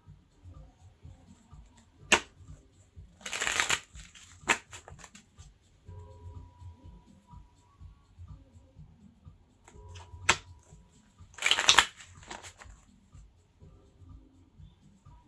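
Tarot cards being shuffled in two short bursts, about three seconds in and again about eleven seconds in, with a few sharp single taps between.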